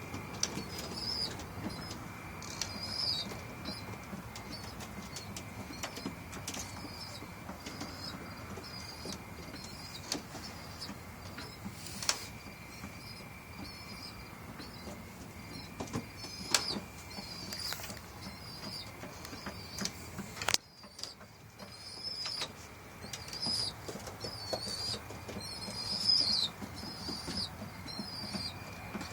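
Racing pigeons in their loft: repeated short high chirping calls throughout, with scattered sharp clicks and flaps.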